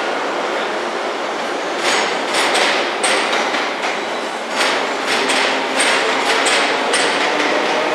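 Passenger train wheels running over station pointwork: a steady rumble that, about two seconds in, turns into a run of irregular clacks with short faint high squeals.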